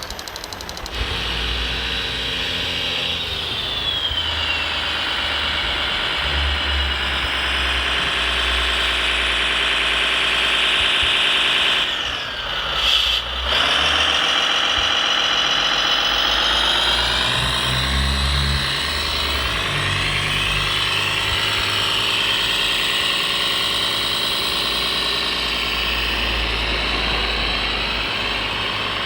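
Radio-controlled hydraulic construction model running under load: a high whine from its hydraulic pump that sags and recovers in pitch as the machine works, over a low engine-like rumble. Around twelve seconds in the sound briefly drops and then picks up again.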